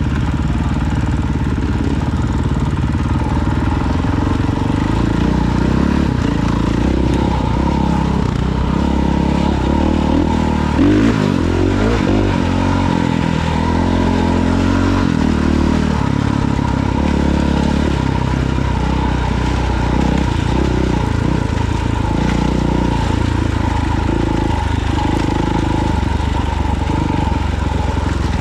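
Dirt bike engine running while riding, its revs rising and falling with the throttle, with a short knock about 11 seconds in.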